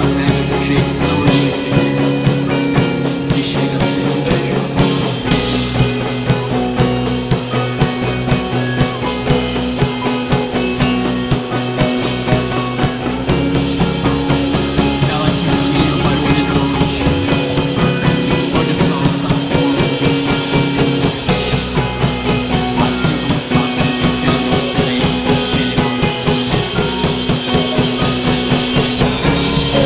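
Loud post-rock band music: a full drum kit playing a busy, steady beat under dense sustained chords.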